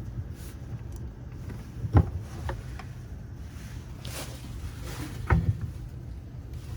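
Faucet stem being unscrewed from a laundry sink faucet body: a few sharp clicks and knocks of the parts and tool, the clearest about two seconds in and again past five seconds, over a steady low rumble.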